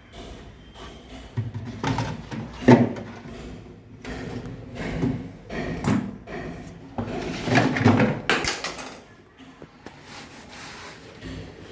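Irregular knocks, clicks and scrapes of parts and panels being handled, loudest a little under 3 s in and around 8 s in.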